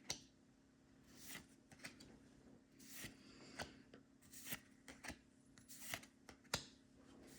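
Faint, irregular flicks and rustles of Pokémon trading cards being handled and flipped through one at a time.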